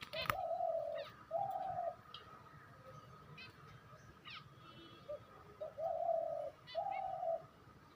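Pet birds calling: two pairs of low cooing notes, each about half a second long, one pair near the start and one about two-thirds of the way through, with a few faint, short high chirps between them.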